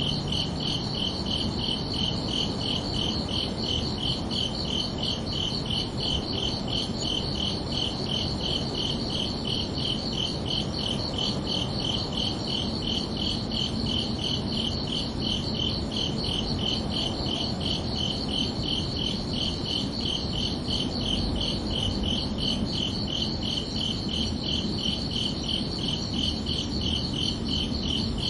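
Crickets chirping in a steady, evenly spaced train of high pulses that never lets up, over a soft, even background noise.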